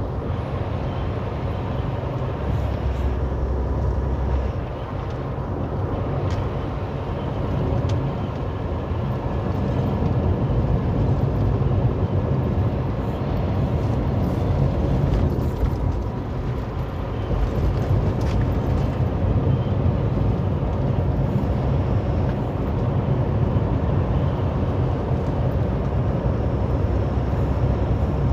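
Steady low drone of a heavily loaded semi truck's diesel engine and road noise, heard inside the cab at highway speed.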